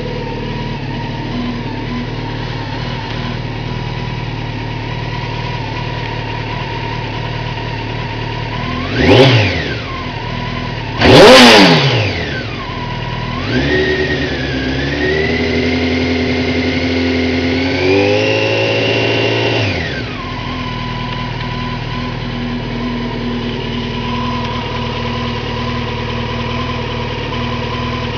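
A 1997 Honda CBR900RR's inline-four engine idling, blipped sharply twice, the second rev the loudest, then held under throttle for about six seconds with the revs climbing steadily before it drops back to idle. This is typical of a pull on a DynoJet dynamometer.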